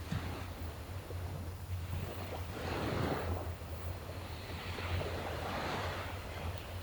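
Gentle sea waves washing onto the shore, two swells of surf rising and falling, the first about halfway in, over a steady low rumble.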